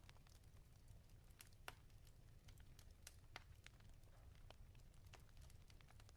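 Wood fire crackling in a fireplace: quiet, irregular snaps and pops over a low steady rumble, with two sharper pops about a second and a half and three and a half seconds in.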